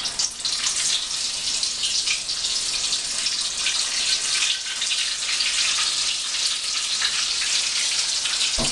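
Beer-battered macaroni-and-cheese ball deep-frying in very hot oil in a small saucepan: a steady, dense crackling sizzle. A brief knock near the end.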